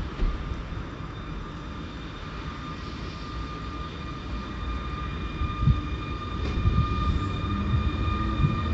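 A train approaching, its rumble growing steadily louder, with steady high-pitched ringing tones above it and a few knocks in the second half.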